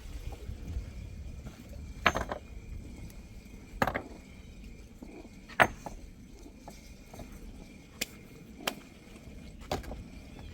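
A series of sharp knocks or strikes, about six, irregularly spaced one to two seconds apart, over a low steady rumble.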